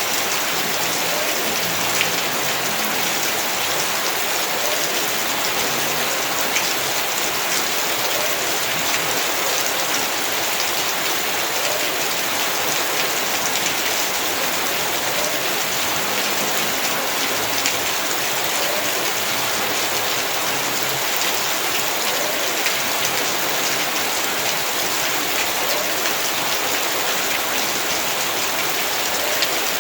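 Heavy rain falling steadily, a dense hiss with scattered individual drop impacts.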